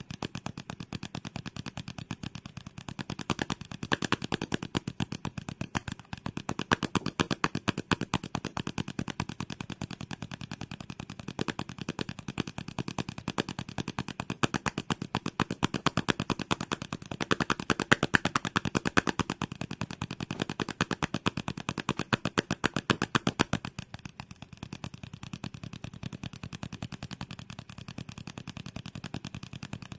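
ASMR trigger sounds: a fast, continuous run of crisp clicks, many per second, louder in the middle stretch and softer for the last several seconds.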